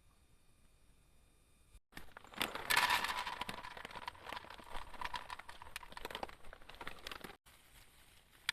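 Dense crackling and rustling, as of something being handled or crushed, that starts suddenly about two seconds in and cuts off abruptly near the end.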